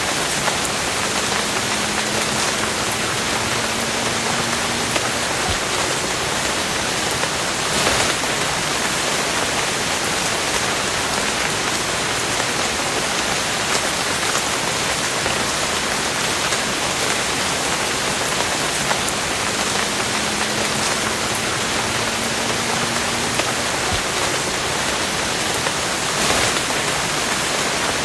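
Steady rain: a dense, even hiss of falling drops, with a louder splatter about a third of the way in and again near the end.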